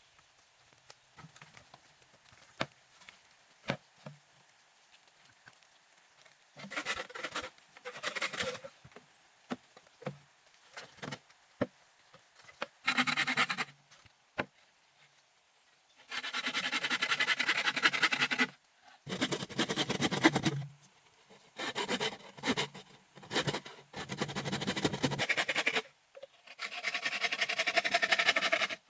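Repeated rough scraping or rubbing strokes, each lasting one to two seconds, after a few seconds of scattered light clicks and knocks.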